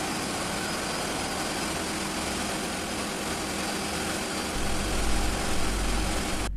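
Ship's engine-room machinery: diesel engines running steadily, an even mechanical drone. A deeper hum strengthens about two-thirds of the way through.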